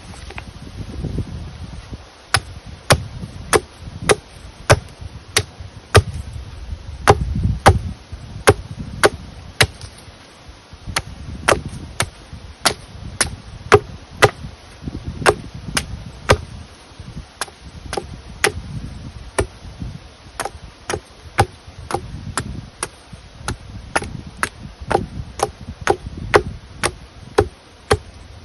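Wood being chopped: a long, steady run of sharp strikes, about one and a half a second, starting about two seconds in.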